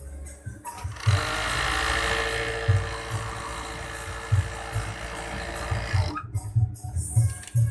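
Overdeck (coverstitch) sewing machine running steadily at speed, starting about a second in and stopping about six seconds in.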